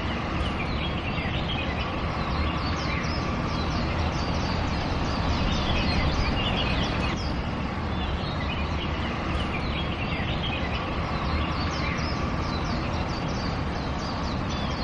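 Birds chirping and calling in quick clusters of short notes, over a steady low background rumble.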